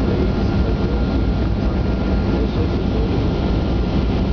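Boeing 737 airliner's jet engines running: a steady low rumble with a faint, steady high whine over it.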